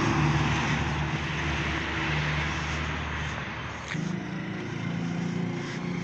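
A motor vehicle's engine running steadily with wind and road noise. Its note changes abruptly about four seconds in.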